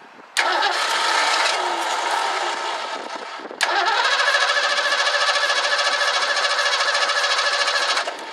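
Starter cranking the 1984 Ford Mustang GT350's engine in two bursts, about three seconds and then four and a half seconds long, with a steady pulsing whine. It is being cranked on fuel poured into the carburetor while spark is checked; spark holds, and the owner puts the trouble down to the carburetor.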